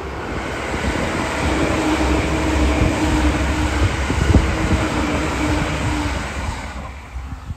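E657 series electric limited express train passing at speed: wheels rolling on the rails with a steady hum. The sound builds over the first second or two and fades about seven seconds in as the last car goes by.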